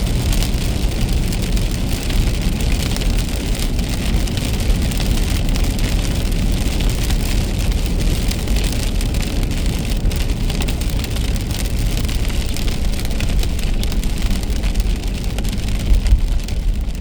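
Rain hitting a moving car, a steady hiss of fine drops over the low rumble of road and tyre noise. A few louder knocks come near the end.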